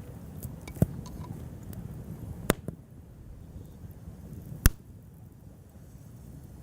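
Wood campfire crackling, with three sharp loud pops a couple of seconds apart and a few fainter ticks over a low steady rumble.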